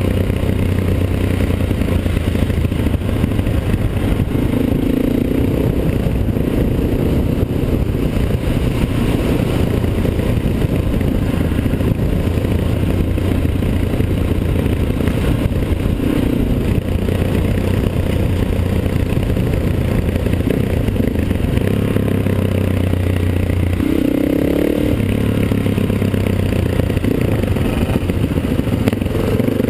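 Single-cylinder dual-sport motorcycle engine running steadily under way, heard from the bike itself, with rattling and rushing noise over the engine. The engine note changes near the end as the bike slows into a tight bend.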